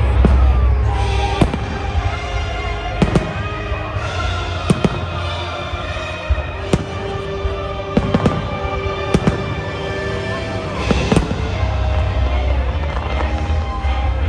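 Fireworks exploding in the air, about nine sharp bangs spaced a second or two apart, with a deep rumble near the start and again near the end. Music with long held notes plays underneath.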